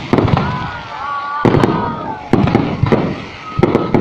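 Fireworks going off in a rapid, irregular series of loud sharp bangs, about ten in four seconds, each followed by a short rumbling echo.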